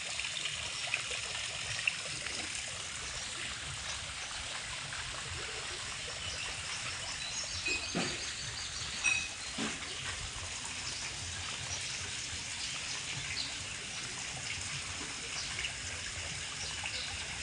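Water trickling and splashing steadily at a swimming pool.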